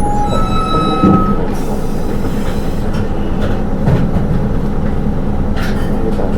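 Cabin running noise of a Hino Rainbow II automatic-transmission city bus on the move: a steady low rumble of engine and road. A brief high-pitched squeal comes in the first second, and short hisses of air follow later.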